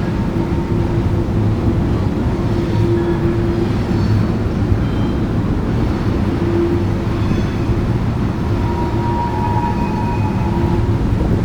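Long coal train's cars rolling over a railroad trestle: a steady rumble of wheels on rail, with faint squealing tones coming and going.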